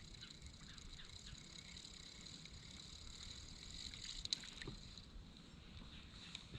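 Faint water sounds around a kayak on calm water, with a single soft knock about four seconds in.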